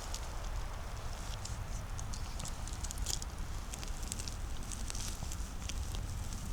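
Footsteps crunching through fallen leaves and twigs, a steady run of irregular small crackles and snaps.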